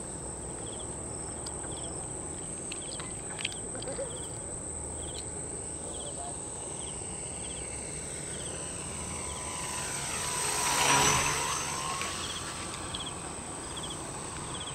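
Radio-controlled Cessna 182 model plane's electric motor and propeller flying past, swelling to a peak about eleven seconds in with its pitch dropping as it goes by, then fading. A steady high insect buzz and repeated insect chirps run underneath.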